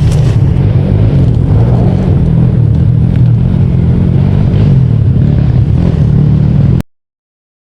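Trail motorcycle engine running under way, its pitch rising and falling slightly with the throttle, then cutting off abruptly near the end.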